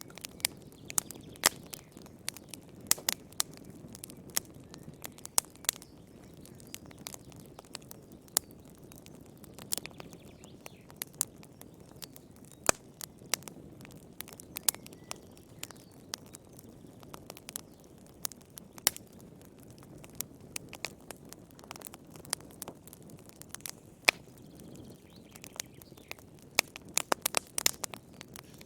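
Fire crackling in a fireplace: irregular sharp pops and snaps over a soft, steady low rush of the flames, with a quick run of pops near the end.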